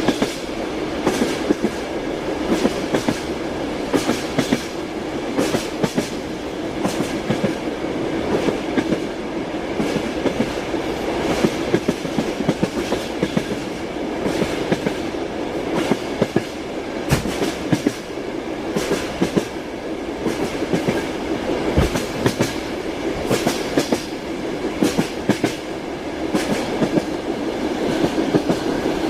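Train wheels clattering over rail joints, with a steady rumble of the moving carriage and frequent sharp knocks.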